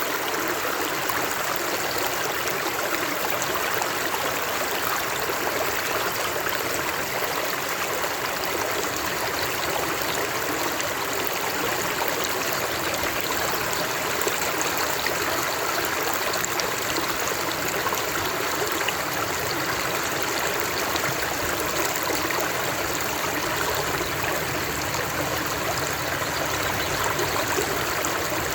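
Flowing water of a stream, a steady even rush.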